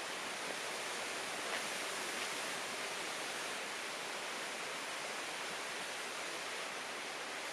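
Steady, even rushing hiss of outdoor ambience, with a couple of faint ticks in the first few seconds.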